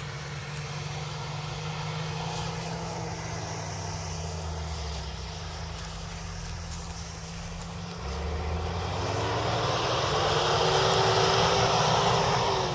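A motor vehicle's engine running. About eight seconds in it grows louder and rises in pitch as it revs under load, then it drops off at the very end.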